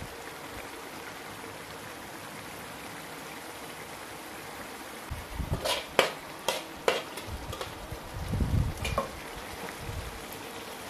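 Chilli sambal sizzling and bubbling in a wok with a steady hiss. About halfway through, a spatula stirs it, clinking and scraping against the pan a few times.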